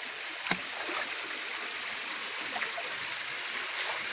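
Water flowing steadily in a stream, with a sharp click about half a second in.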